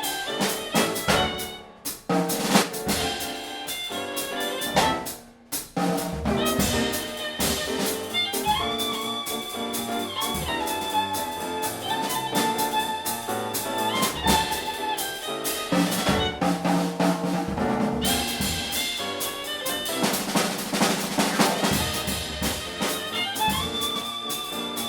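Jazz trio of violin, piano and drum kit playing a jazz standard. For the first few seconds the drums lead with busy snare and rimshot hits and two short breaks, then the violin holds long melody notes over piano and drums.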